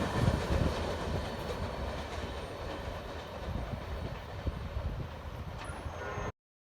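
Freight train rolling past and fading away, with a few sharper clicks of wheels over rail joints. The sound cuts off suddenly about six seconds in.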